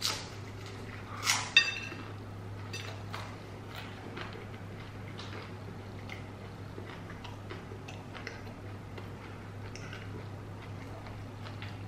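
Crunching bite into a crispy deep-fried vegetable egg roll, loudest about a second and a half in, then quieter chewing with faint crackles, over a low steady hum.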